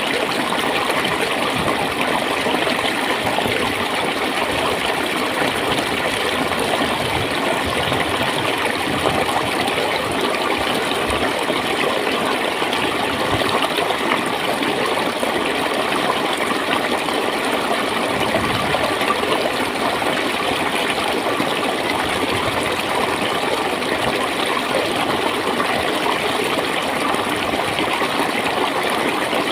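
Clear water flowing and gurgling over stones in a shallow stream, a steady, continuous rush.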